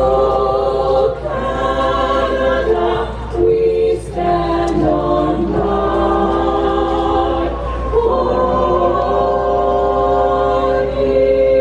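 Choral music: a choir of voices singing held chords that change every second or two.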